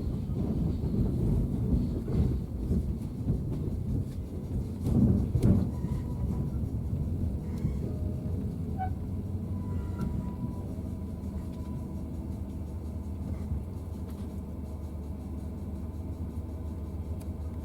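Train running on the rails: a low rumble with scattered knocks, louder over the first few seconds and then steadier and quieter.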